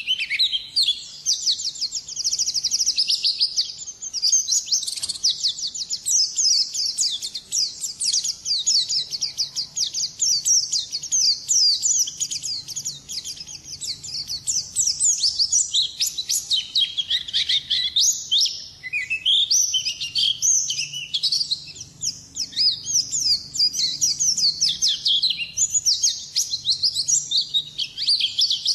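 White-eye (pleci) singing a long, fast, nearly unbroken run of high chirps and trills in the 'ngalas' style, with only brief pauses.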